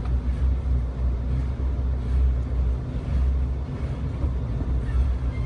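Jeep Wrangler TJ driving over snow, heard from inside the cabin: a steady low rumble of engine and tyres.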